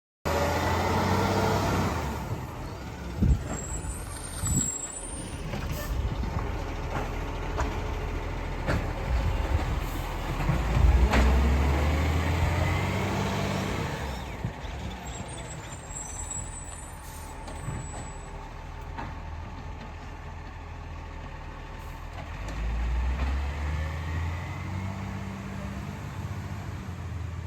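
Garbage truck's diesel engine running, growing louder about halfway through and again near the end, with a few sharp knocks in the first half.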